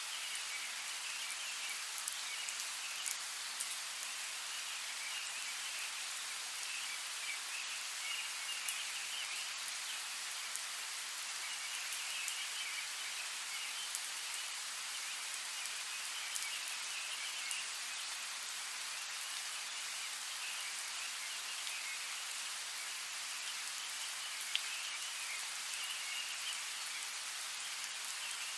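Steady rain falling, an even hiss with scattered ticks of single drops. Behind it, a high trilling, possibly frogs or insects, comes and goes in spells every few seconds.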